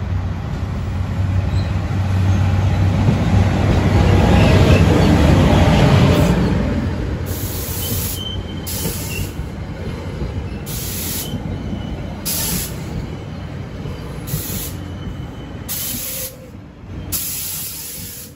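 Train passing close by: a low steady hum and heavy rumble that builds to its loudest about four to six seconds in, then eases off. Through the second half, high-pitched wheel squeal and hiss come and go.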